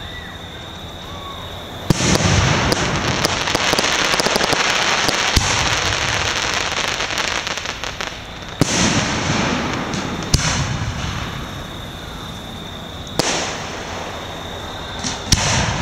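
Aerial fireworks shells bursting: a sharp bang about two seconds in starts several seconds of dense crackling, followed by single bangs near the middle and a quick pair near the end.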